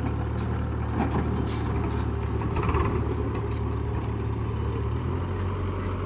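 Tractor diesel engine running steadily, its note changing about five seconds in, with scattered knocks and rattles over it.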